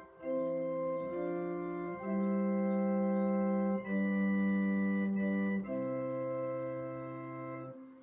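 An organ playing slow, held chords that change every one to two seconds, with each chord sounding at full strength until the next one; the last chord is released just before the end.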